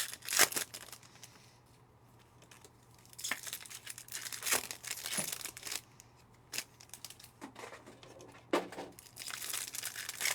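Panini Optic football card pack wrapper being torn open and crinkled, in several short bursts of rustling with pauses between.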